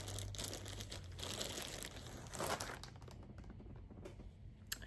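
Crinkly packaging rustling and crackling in irregular bursts as items are handled.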